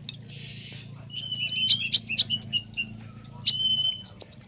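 Konin songbirds chirping: short, high, steady whistled notes mixed with sharp, clicky calls in quick succession.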